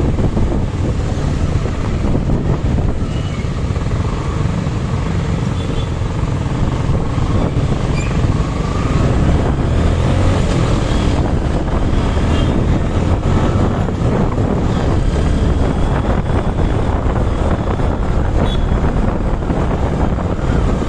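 Wind rushing and buffeting over the microphone of a moving Suzuki Gixer SF motorcycle, with the bike's engine running beneath it: a loud, steady rush that is heaviest in the low end.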